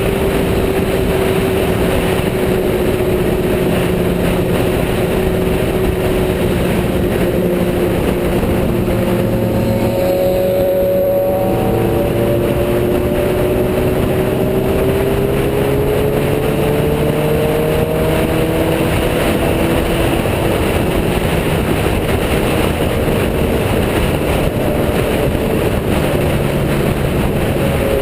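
Sport motorcycle engine running at road speed, its pitch slowly rising and falling over a steady loud rush of wind and road noise.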